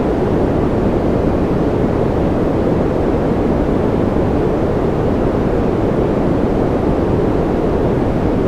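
Steady sleep-noise track: an even, deep rushing noise with most of its energy low and little hiss on top, unchanging throughout.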